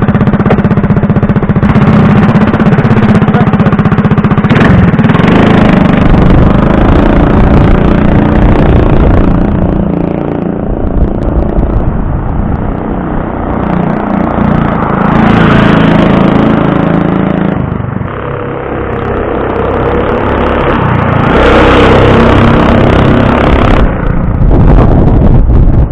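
Predator 212 single-cylinder engine on a Baja Warrior mini bike running through a Robertson torque tube exhaust while being ridden: it pulls hard, eases off for a few seconds near the middle, then revs up and eases off again twice.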